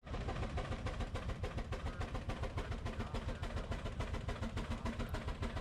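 A 3/4-scale Baker steam traction engine working under load against a Baker fan, its exhaust chuffing in quick, even beats, about five a second.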